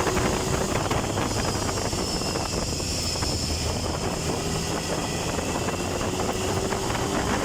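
Triumph Tiger 1050's three-cylinder engine running steadily while under way, with wind rushing over the microphone.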